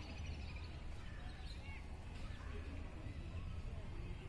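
A few short chirps from small birds over a steady low rumble.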